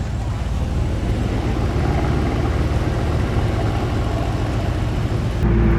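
Steady car engine and road noise from a moving car, heard from inside it, a low rumble that grows slowly louder and steps up just before the end.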